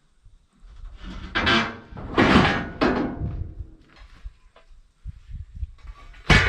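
Heavy metal being handled: a few loud scraping thuds, then near the end a sharp metal clang that rings briefly.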